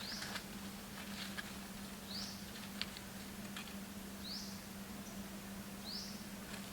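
An animal's short, high, rising call repeated about every two seconds, four times, over a steady low hum, with scattered light clicks and taps.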